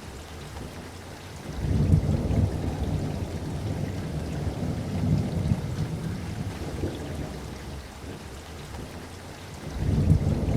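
Steady rain with rolling thunder: a low rumble swells up about a second and a half in and dies away over several seconds, and another rumble begins near the end.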